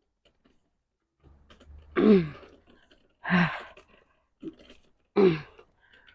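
A woman's heavy, voiced exhalations from the effort of walking: four short huffs about a second apart, each dropping in pitch and trailing off breathily.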